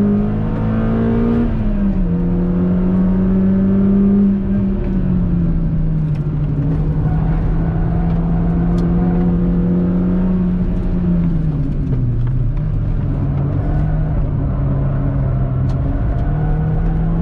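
Peugeot 206 RC's 2.0-litre four-cylinder engine, fitted with a 63.5 mm stainless exhaust line, running hard on track with a steady, loud note. Its pitch drops slightly about two seconds and four seconds in, dips deeper around twelve seconds in, then climbs again near the end.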